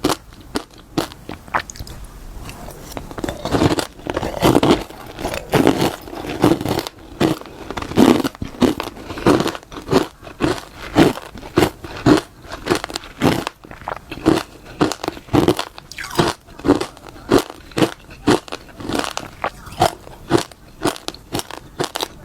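Close-miked biting and chewing of crunchy freezer frost: a steady run of crisp crunches, roughly two a second.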